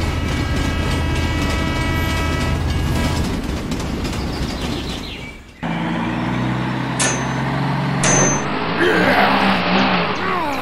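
Dubbed train sound: a low rumble with a long held horn, fading away about five seconds in. It cuts to a tractor engine running steadily, with two sharp clicks and then a run of high squeaky glides near the end.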